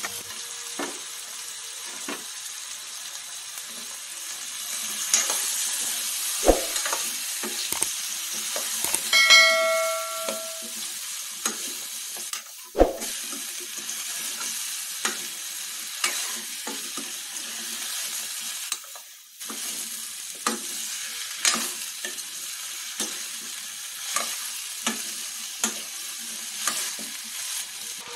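Cauliflower florets sizzling in oil in a stainless steel pot while a metal spoon stirs them, with repeated clicks and scrapes of the spoon against the pot. About nine seconds in there is one brief metallic ring.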